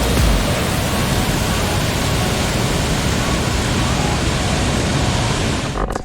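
Steady, even rushing noise spread from low to high pitches, cutting off suddenly near the end.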